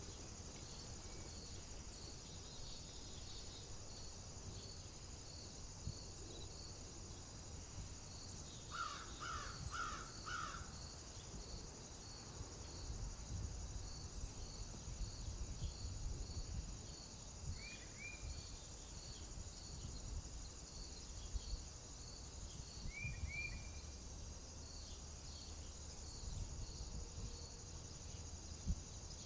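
A corvid caws four times in quick succession about nine seconds in, over a steady high insect drone with regular chirps about twice a second and a low wind rumble. A small bird gives short two-note chirps three times later on.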